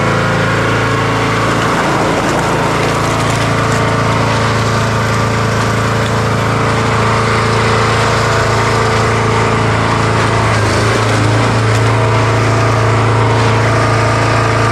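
An engine running steadily at constant speed, a loud even hum with no change in pitch.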